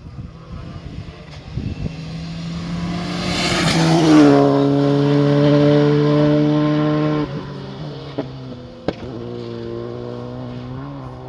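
Rally car passing at speed: its engine note and tyre noise build to a loud peak about four seconds in, the engine then holds a steady note that drops off suddenly about seven seconds in, with a sharp click near nine seconds.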